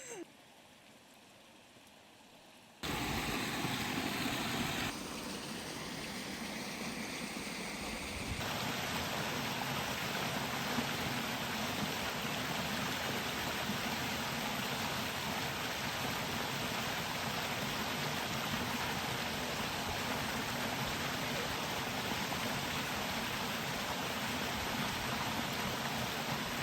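Water running steadily in a clear spring-fed stream. It starts abruptly about three seconds in after a near-quiet moment, and its tone shifts slightly twice.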